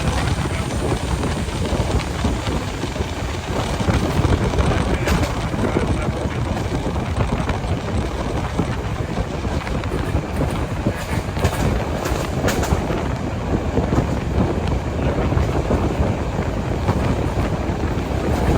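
Train running along the track: a steady rumble with scattered sharp clicks, and wind on the microphone.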